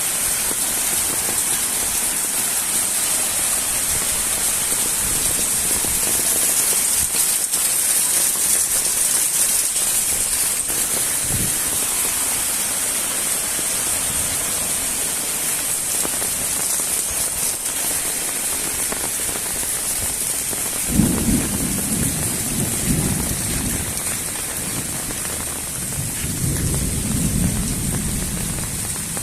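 Steady fairly heavy rain falling, a dense even hiss. In the last third a low rumble comes in twice, the first time with a sudden jump in level.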